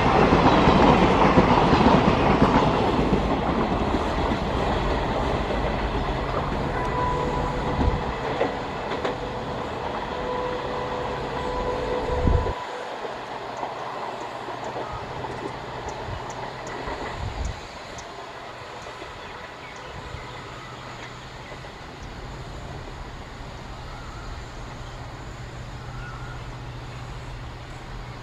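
Indian Railways passenger coaches rolling past close by, wheels running on the rails, the noise fading as the train moves away. About halfway through, it drops to a quieter low rumble of a distant train.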